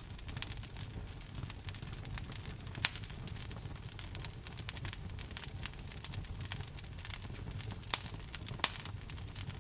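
Logs burning in a fireplace: a steady low rumble of the fire with a dense run of small crackles and a few sharper pops, the loudest about three seconds in and twice near the end.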